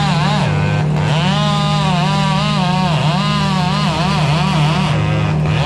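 Mini excavator engine running steadily under load, with a whine that rises and falls repeatedly over the low drone as the machine works.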